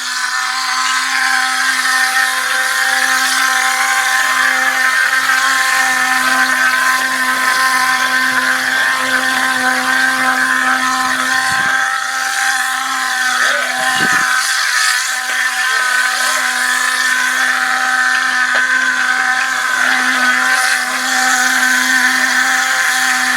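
A motor running steadily, a constant pitched hum with overtones that holds unchanged throughout. Two brief low knocks come about halfway through.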